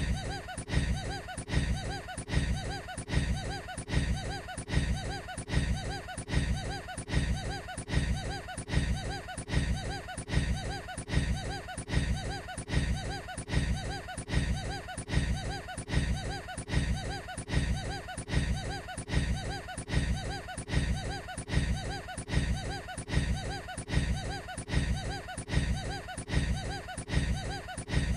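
A man's short laugh looped over and over, repeating about once a second.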